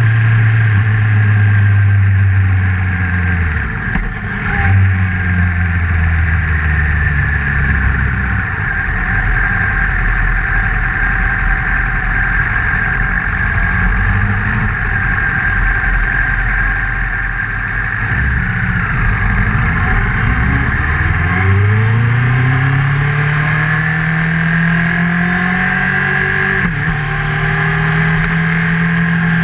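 Honda CBR1000RR inline-four engine running under way, recorded on the moving motorcycle with steady wind and road noise. Its pitch drops about three and a half seconds in, then dips and climbs steadily from about twenty seconds as the bike accelerates.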